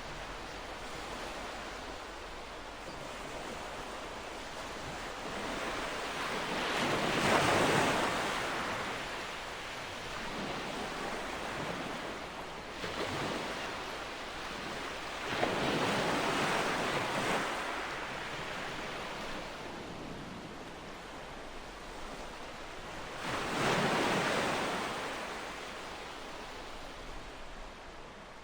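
Ocean waves washing onto a shore: a steady surf hiss with three waves breaking louder, each swelling and fading over a couple of seconds, roughly eight seconds apart.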